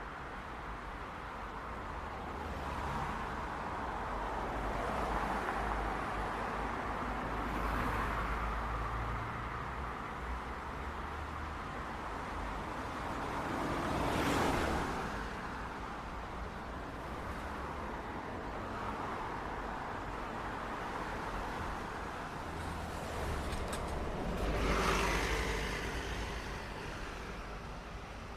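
City street traffic: a steady wash of tyre and engine noise with a low rumble, and vehicles passing by close, the loudest about halfway through and again near the end.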